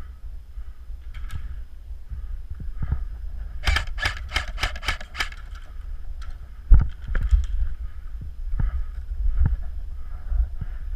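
An airsoft gun firing a rapid burst of about nine sharp clicking shots over a second and a half, near the middle. A steady low rumble runs underneath, and a single loud knock comes a little later.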